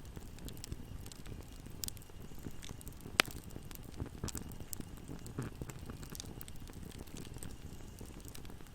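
Wood fire burning in a fireplace: a steady low rumble of flames with scattered small crackles and one sharp pop about three seconds in.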